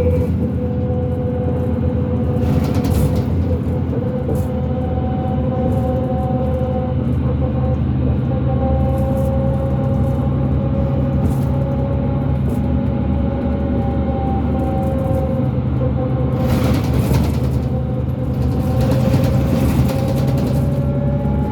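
Inside a 2005 New Flyer D40LF diesel transit bus under way: the Cummins ISL engine's low drone with a steady whine from the drivetrain that drifts slowly up and down in pitch with road speed, the weird axle noise this bus is known for. A few short bursts of rattle or hiss break in near the start and again toward the end.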